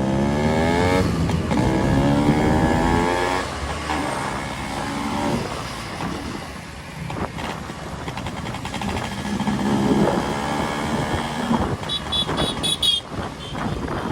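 Two-stroke Yamaha RX-series motorcycle engines revving and pulling away, their pitch climbing steeply over the first few seconds and then fading. Another rev rises about ten seconds in, and short high-pitched tones come near the end.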